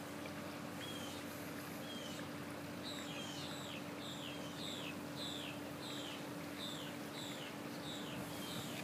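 A bird calling again and again in short, high, down-slurred chirps, one or two a second, starting about a second in, over a faint steady hum.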